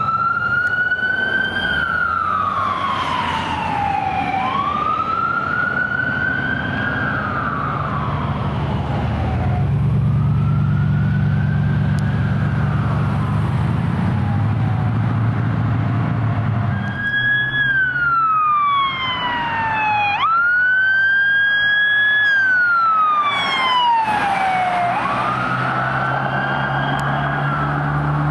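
Emergency vehicle siren wailing, each cycle a quick rise and a slow fall in pitch; the cycles quicken in the second half. Heavy vehicle engines rumble underneath as the rigs pass.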